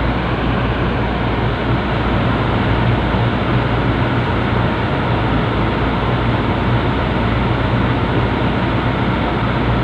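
A large vehicle engine running steadily with a constant low drone.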